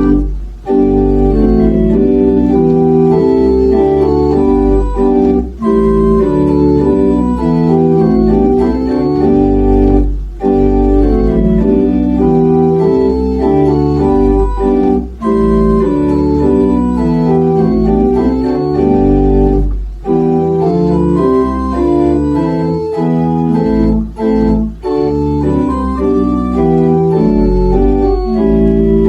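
Organ playing sustained chords in phrases of about five seconds, with a short break between each phrase.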